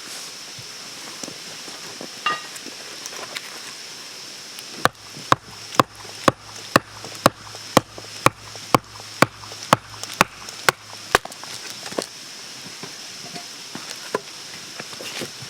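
About fourteen sharp chopping strikes, evenly spaced at two a second, starting about five seconds in and stopping about six seconds later, over a steady high-pitched hiss from the surroundings.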